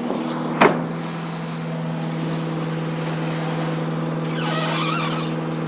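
Leach 2R2 rear-loader garbage truck running its packer, a steady mechanical hum as it crushes a plastic jacuzzi. A single sharp crack about half a second in, and a wavering creak near the end as the shell gives way.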